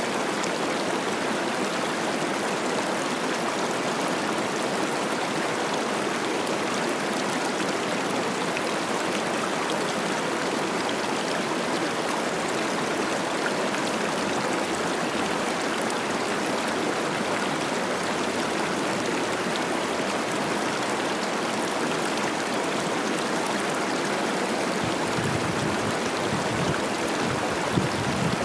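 Cache la Poudre River rushing and babbling over rocks in a steady flow, running high with spring snowmelt. A low rumble joins in near the end.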